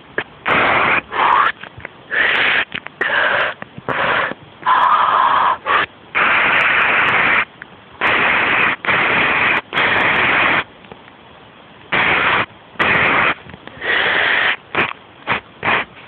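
A person making breathy, hissing mouth noises in a string of short bursts, each up to about a second and a half long, with brief pauses between.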